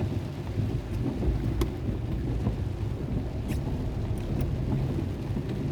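Heavy rainstorm: steady rain with a constant low rumble underneath and a few sharp drip-like ticks.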